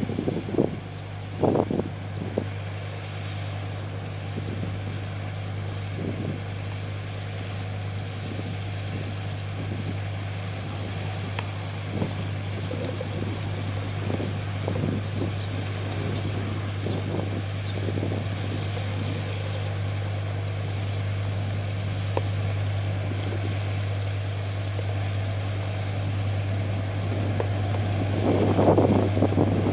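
Car ferry's diesel engines running steadily as the ship comes in to berth, a low even hum. Wind buffets the microphone at the start and again near the end.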